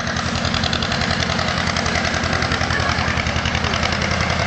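An engine running steadily at idle, with a fast, even pulse and no change in speed.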